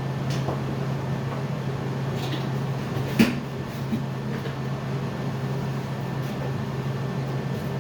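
A steady low electrical hum with a few scattered sharp taps or clicks, the loudest about three seconds in.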